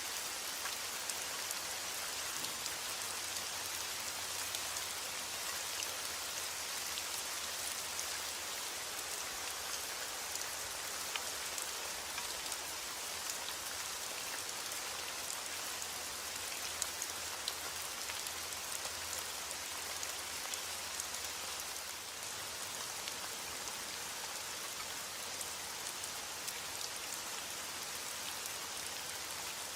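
Heavy rain falling steadily: an even hiss with many small drop ticks scattered through it.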